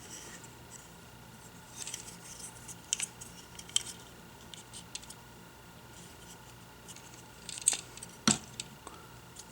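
Hard plastic toy parts handled: light clicks and rubbing from a Transformers action figure being moved and posed, with a few sharper snaps, the loudest near the end.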